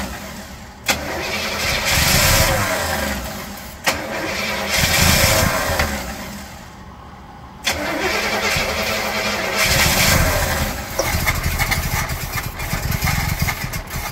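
Oldsmobile Cutlass V8, not run in decades, being cranked over on the starter on a dose of starting fluid in the carburetor. There are several tries, each opening with a sharp click, and the engine sound swells and then fades away between them.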